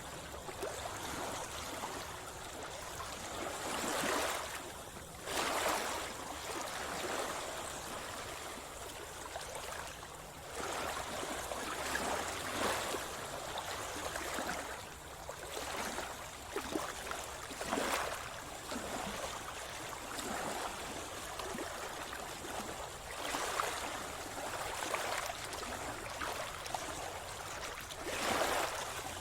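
Sea water sloshing and gurgling close to the microphone, broken every few seconds by louder splashes, as of someone swimming.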